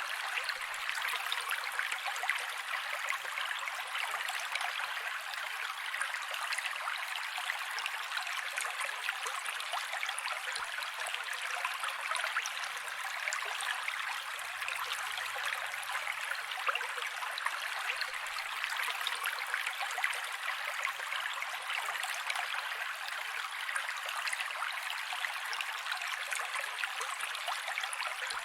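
Mountain creek flowing over rocks: a steady rushing and splashing of water, bright and hissy with little low rumble.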